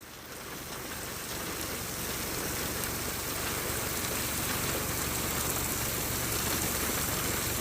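Heavy rain falling in a steady, even hiss on hard surfaces, fading in over the first couple of seconds.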